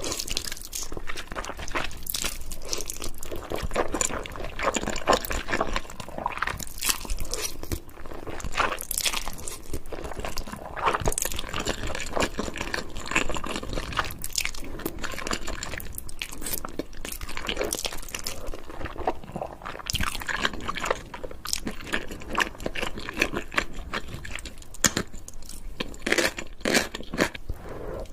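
Close-miked eating of Indomie instant noodles: steady chewing with irregular crunchy bites and wet mouth clicks.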